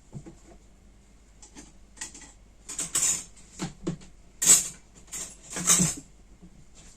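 Kitchen utensils and containers being handled: a string of short scraping and rustling noises, the loudest about four and a half and five and a half seconds in.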